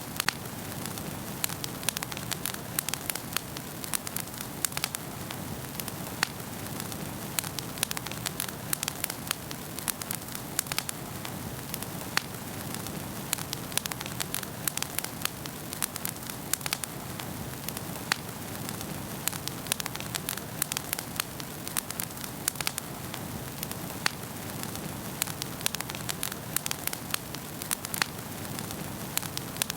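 Wood fire burning in a fireplace: a steady soft hiss with many sharp, irregular crackles and pops.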